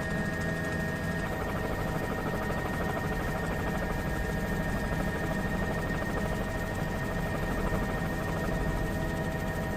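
Steady helicopter engine and rotor drone, with a high whine over it that drops out about a second in.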